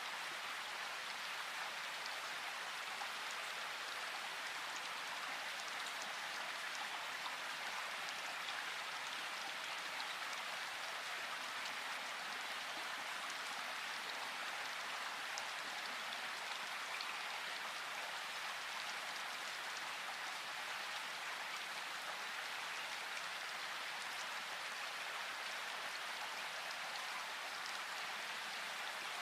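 Steady rain falling in a forest: an even hiss with faint scattered drop ticks.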